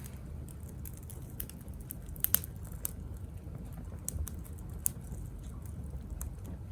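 Small wood fire burning in a compact tabletop grill, crackling with scattered sharp pops, a few louder ones about two seconds and five seconds in, over a low steady rumble.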